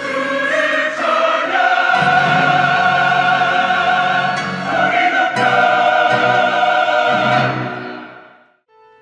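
Church choir with orchestral accompaniment singing long held chords with vibrato, a closing cadence that fades away about eight seconds in.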